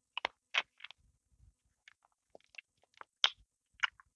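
Close-miked bite into a crusty bread roll, then chewing: short, sharp crackles of crust and mouth clicks coming irregularly, the loudest soon after the bite and again about three seconds in.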